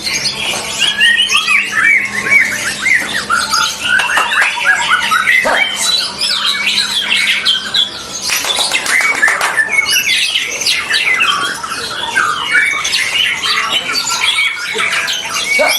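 Many caged white-rumped shamas (murai batu) singing at once, a dense tangle of overlapping chirps, whistles and warbles with no pause.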